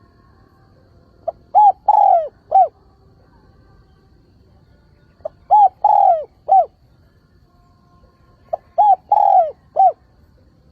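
Spotted dove cooing its calling song, three phrases about three and a half seconds apart. Each phrase is a faint pickup note, two short coos, a longer falling coo and a final short coo.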